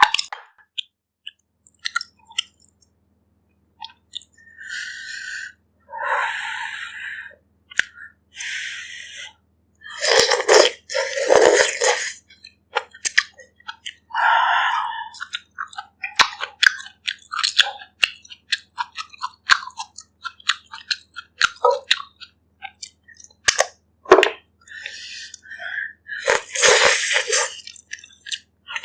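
Close-miked eating sounds of a person eating bak kut teh: irregular chewing and wet mouth clicks, with several louder noisy bursts lasting about a second.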